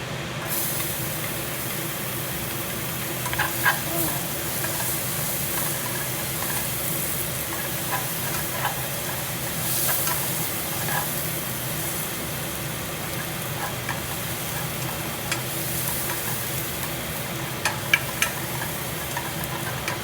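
Shallots frying and sizzling in a hot pan, the sizzle starting about half a second in, with a few sharp clicks of a utensil stirring against the pan. A steady hum from a noisy kitchen exhaust fan runs underneath.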